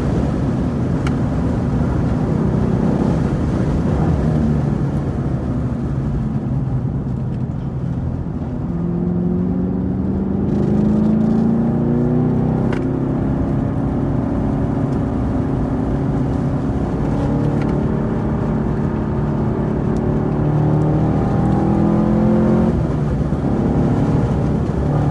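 Chevrolet Camaro SS 1LE's 6.2-litre V8 running under load during a track session. Its note climbs gradually about a third of the way in, holds, then drops near the end.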